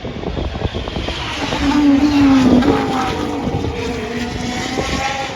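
A 2022 Formula 1 car's 1.6-litre turbo-hybrid V6 going past at speed. The engine note swells to its loudest about two seconds in, drops slightly in pitch, and then holds steady.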